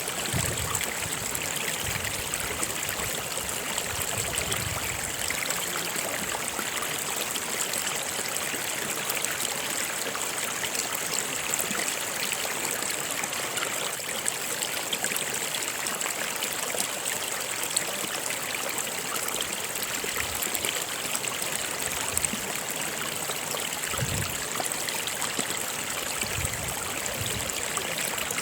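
A stream of water running steadily.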